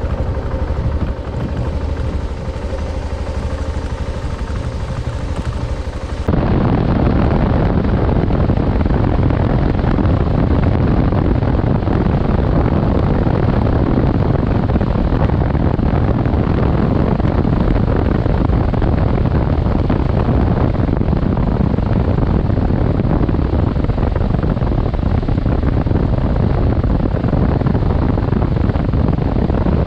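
Adventure motorcycle engine running under wind noise. About six seconds in, the sound cuts abruptly to a louder, steady rushing noise with no engine note.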